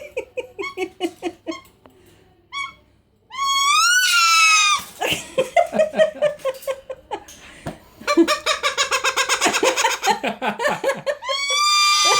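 A pet bird, which imitates sneezes, gives loud rising squawk-whistles twice: about four seconds in and again near the end. Between them come rapid, pulsed bouts of laughter.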